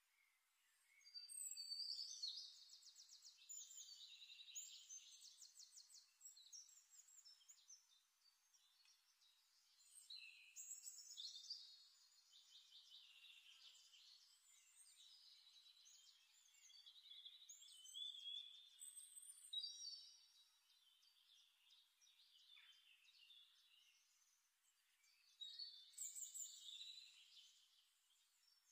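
Faint songbird singing: fast high trills and short whistled chirps in three bouts with pauses between.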